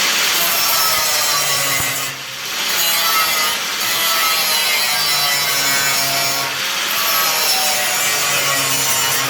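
Angle grinder grinding down steel car bodywork, a continuous loud scraping whir whose pitch wavers as the disc is pressed against the metal, easing off briefly about two seconds in.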